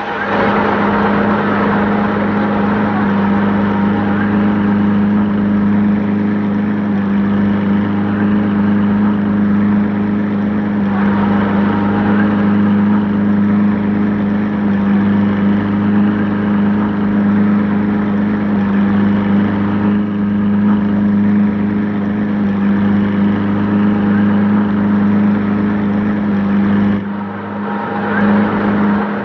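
An engine running steadily: a constant, even drone with a fixed low hum that does not rise or fall, briefly dipping near the end.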